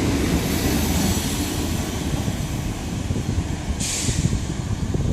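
A long, heavily loaded freight train's wagons rolling past with a steady rumble of wheels on rail. A short hiss comes about four seconds in.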